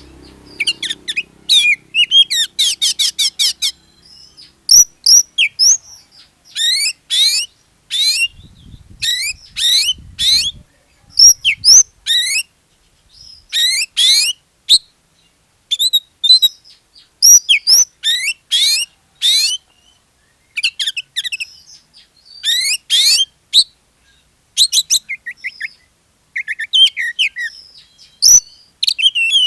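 Oriental magpie-robin (kacer) singing in full, vigorous song (gacor): loud phrases of rapid, sweeping high notes and trills, each a second or two long, with short pauses between.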